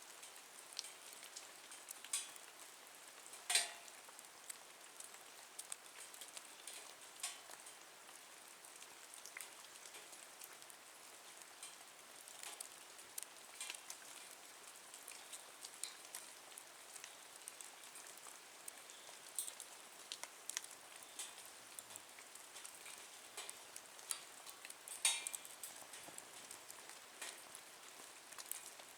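Wood fire burning in a nature stove: a steady soft hiss with irregular sharp crackles and pops. The loudest pops come about three and a half seconds in and again around twenty-five seconds.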